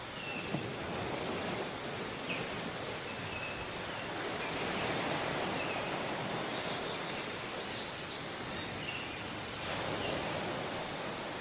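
Tropical beach ambience: a steady wash of surf, with short bird chirps now and then.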